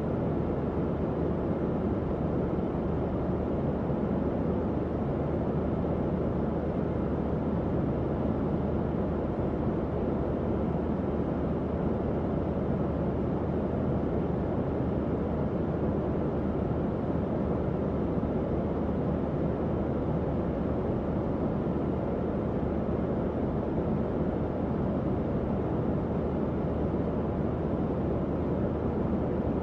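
Tower fan running steadily: an even, low airflow rush with a faint low hum and no changes.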